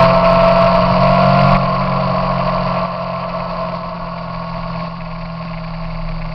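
Triumph Sprint ST 955i inline-triple engine running while riding, with wind noise rushing over the fairing-mounted microphone; the sound gradually gets quieter.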